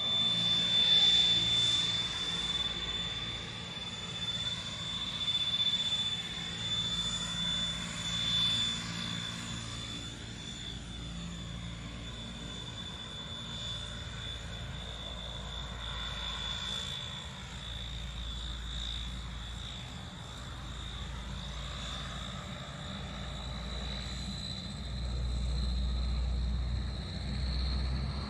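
Rolls-Royce Dart turboprop engines of a NAMC YS-11 running in flight: a strong, steady high whine over a low propeller drone, loudest in the first few seconds, with the whine rising slightly in pitch near the end.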